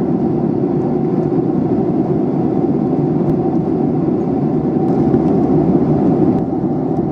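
Airliner cabin noise: the steady low rumble and rush of the engines and airflow heard from inside the passenger cabin, swelling slightly about five seconds in.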